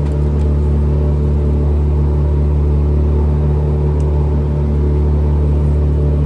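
A motor running steadily with a low, even hum. It cuts off suddenly near the end.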